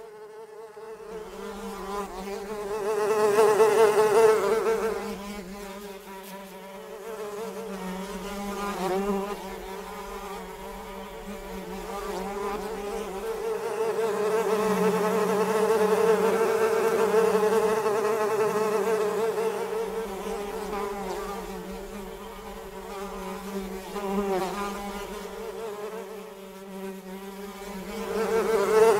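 Flies buzzing in flight: a steady droning hum that swells and fades as they pass, loudest about four seconds in, through the middle, and again at the end.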